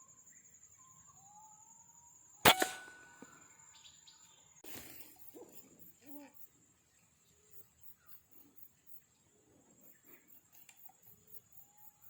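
A single sharp air-rifle shot about two and a half seconds in, the loudest sound by far, with a brief ring after it, then a shorter rustling burst. Short bird calls and a steady high insect drone go on around it.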